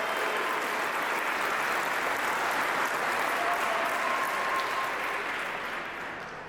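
A large audience applauding steadily, with a few faint voices in the crowd; the clapping dies away near the end.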